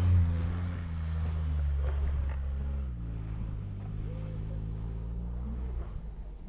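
Four-wheel-drive vehicle's engine running under load as it climbs through snow, a steady note that drops in pitch about three seconds in.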